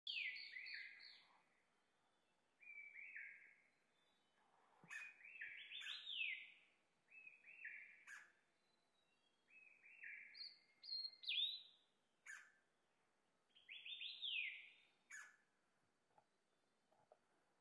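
Red-flanked bluetail singing: short phrases of clear whistled notes, each sliding downward, repeated every second or two, with a few sharp clicks between phrases.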